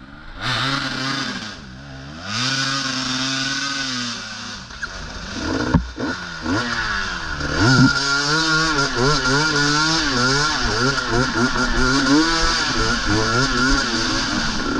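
Dirt bike engines revving on a trail ride, the pitch rising and falling again and again with throttle and gear changes. It eases off briefly about two seconds in.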